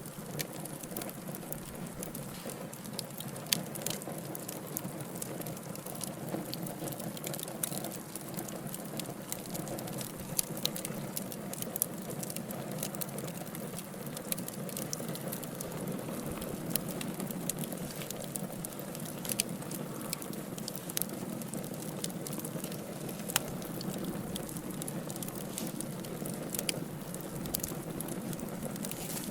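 Wood fire burning in a fireplace: a steady low hiss of flame with frequent small crackles and occasional sharper pops from the logs.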